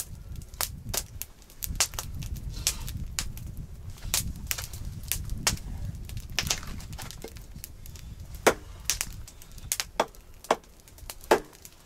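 Campfire burning, crackling and popping with irregular sharp snaps of wood, over a low rumble that fades after about seven seconds.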